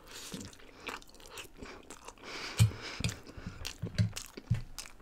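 A person chewing a mouthful of food close to a microphone, with irregular mouth clicks and smacks and a few louder chews.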